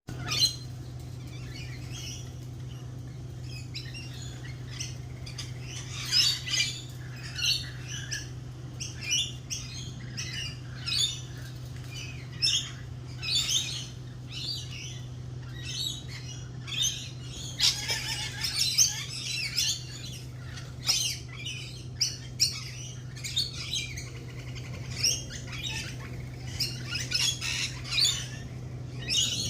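A lively chorus of birds squawking and chirping, with many short shrill calls coming thick and fast throughout, over a steady low hum.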